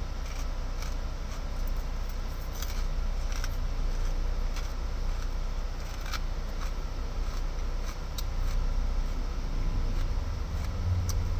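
Steady low rumble of an idling truck engine, with scattered short crisp clicks and crunches of someone chewing crunchy chicharrón (fried pork skin).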